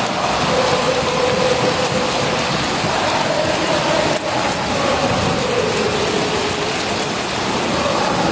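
Heavy downpour of torrential rain, with a steady droning tone underneath that wavers and sags in pitch about two-thirds of the way through.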